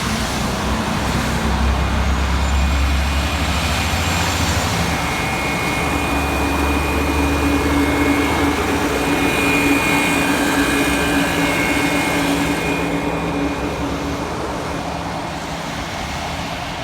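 A heavy road vehicle, sounding like a truck, driving past. Its low engine hum and a steady whine build up and then fade away.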